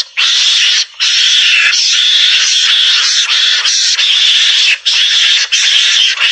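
Javan mongoose (garangan) calls played as a hunting lure: a loud, harsh, continuous chattering squeal, broken by brief pauses about a second in and a few more times later.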